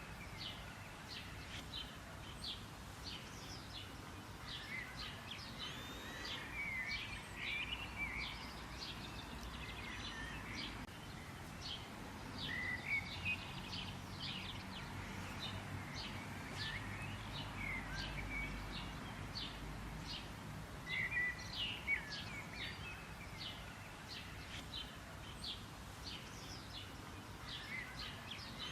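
Several small songbirds chirping and warbling, a dense chorus of short high notes and quick trills, over a faint low background rumble.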